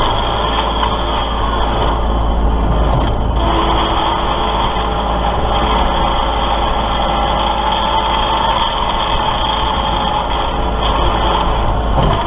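Kubota L3901 compact tractor's diesel engine running steadily.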